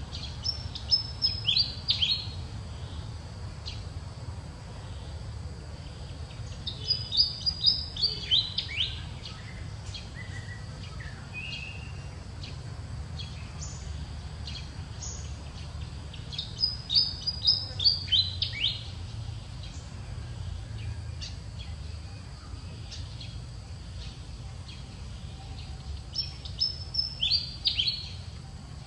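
A songbird singing the same short phrase four times, roughly every nine to ten seconds. Each phrase is a quick run of clear notes falling in pitch, heard over a steady low rumble.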